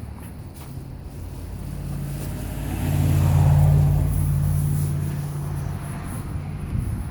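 A car passing by: a low engine hum that grows louder, peaks about three and a half seconds in, and fades away.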